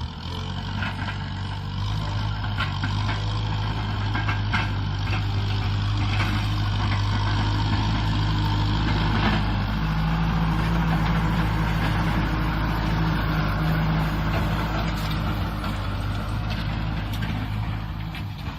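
Kubota M6040 SU tractor's diesel engine running steadily under load while ploughing, with scattered clanks. Its note shifts slightly about halfway through.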